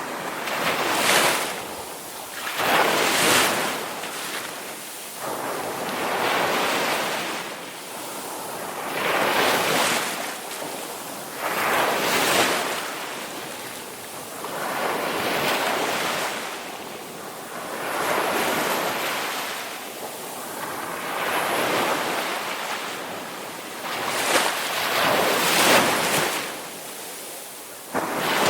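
Ocean surf: waves washing in one after another, each surge of hiss swelling and fading every two to three seconds.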